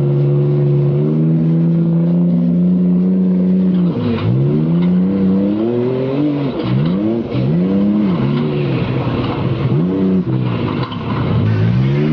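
Rally car engine held at steady revs for about four seconds, then accelerating hard through the gears. The pitch climbs and drops sharply at each of several shifts.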